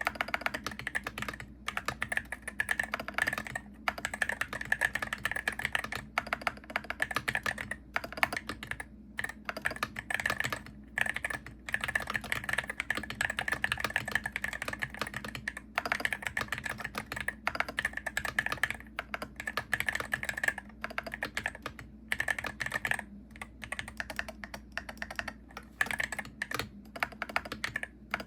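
Continuous typing on a Hero68HE gaming keyboard, a fast stream of key clicks broken by brief pauses every few seconds.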